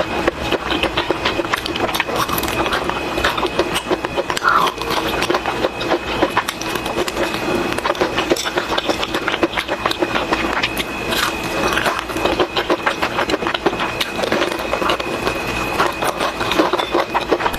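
Chicken frying in hot oil: dense, steady crackling with a constant hum under it.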